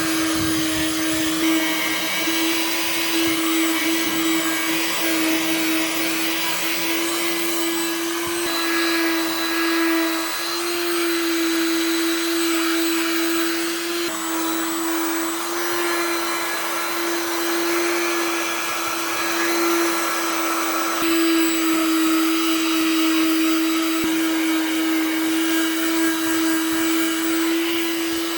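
An electric power tool's motor running steadily at one constant pitch, with a dense hiss of work noise over it.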